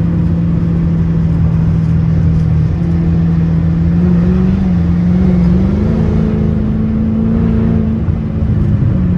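Straight-piped Dodge Charger exhaust droning inside the cabin while driving. The steady tone rises in pitch about four seconds in, holds, then drops back near the end as the throttle eases.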